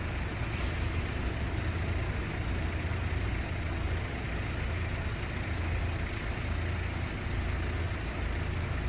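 City street ambience: a steady low rumble of road traffic under an even hiss, with no single sound standing out.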